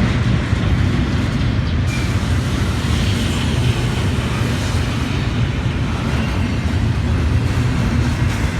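Train passing, a loud, steady low rumble.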